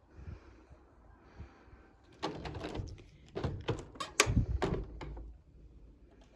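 A door being handled: a series of latch clicks and knocks, with a heavy closing thump a little past the middle.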